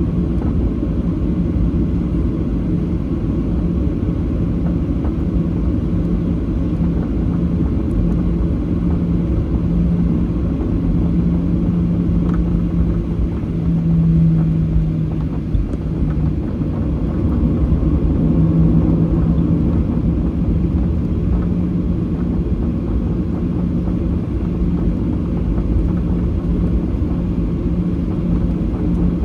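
Steady low rumble inside the cabin of a Boeing 737-800, its CFM56 engines running, with a hum that wavers slightly and swells a little twice.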